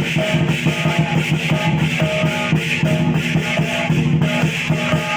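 Lion dance music: a drum beating fast and steadily, with cymbals clashing continuously over it and short melodic notes between.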